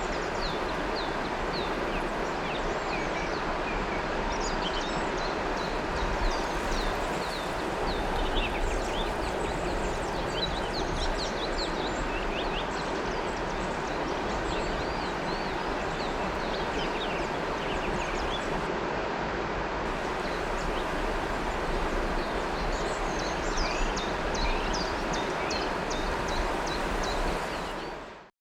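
River water flowing steadily with a continuous rushing sound, and many small birds chirping over it in short, quick calls. The sound fades out in the last second.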